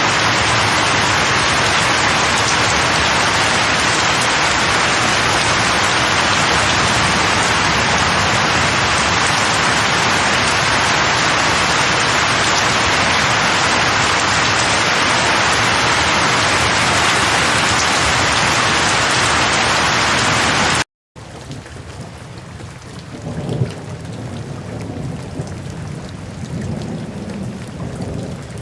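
Steady, loud rain noise that cuts off abruptly about 21 seconds in. A quieter rain recording follows, with a low rumble running through it near the end.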